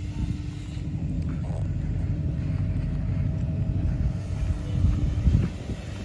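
Diesel engine idling steadily with a low rumble.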